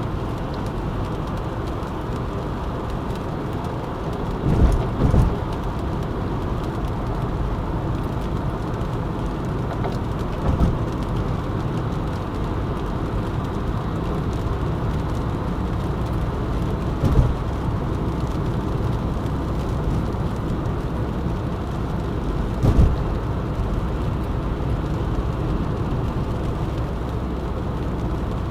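Car driving at road speed, heard inside the cabin: a steady low road and tyre rumble, with a few short thumps from bumps in the road about five, ten, seventeen and twenty-three seconds in.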